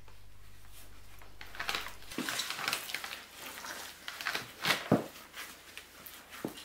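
Hands working a wet earth mix, sculpting it around a stove flue pipe: irregular scraping and rubbing, with a few louder pats and clicks.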